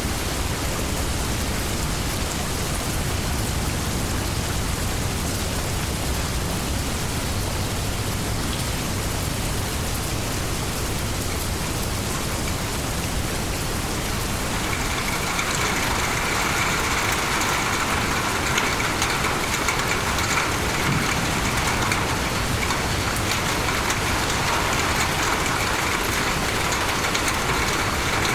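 Steady rainstorm: continuous rain falling, with a low rumble underneath in the first half. About halfway through, the rain grows louder and brighter.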